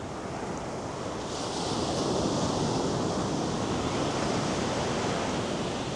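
North Sea surf: a wave breaks and washes up the beach, the hiss swelling about a second in and easing off near the end.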